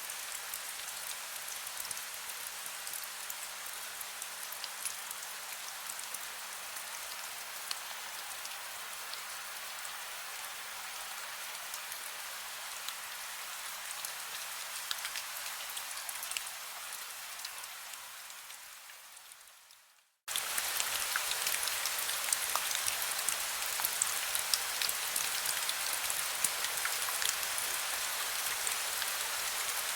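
Heavy rain: a steady hiss with scattered sharp drop ticks. About two-thirds of the way through it fades quickly to a moment of silence, then starts again suddenly and louder.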